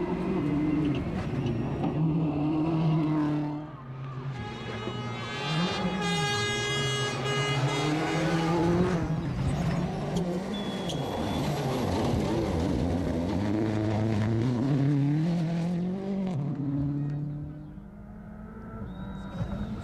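A World Rally Car's turbocharged engine is revving hard on a stage, its pitch climbing and dropping again and again through gear changes. The level dips briefly about four seconds in and again near the end.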